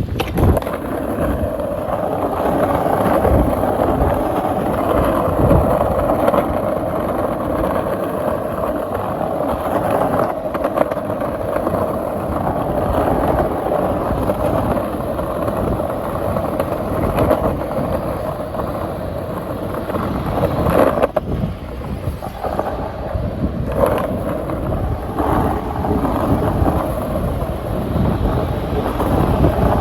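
Wind buffeting the microphone: a steady loud rush with uneven low gusts.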